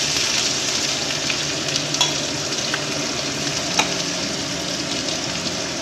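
Food sizzling steadily in hot oil in a kadai, with dried red chillies frying. A couple of light clicks come about 2 and 4 seconds in.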